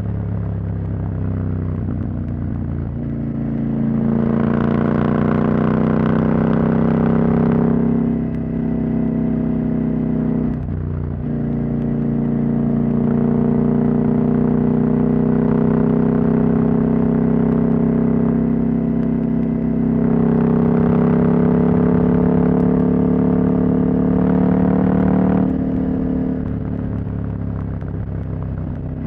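Husqvarna Norden 901's parallel-twin engine, with its catalytic converter removed, running under way on the road. The engine note climbs and eases several times, with a short break about eleven seconds in, and it backs off near the end.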